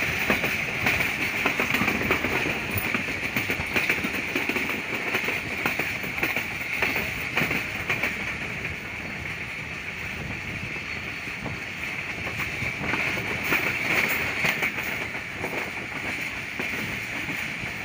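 Passenger train coach running at speed, heard from an open window: a steady rolling noise of steel wheels on the rails, with frequent sharp clicks and clatter from the wheels and running gear.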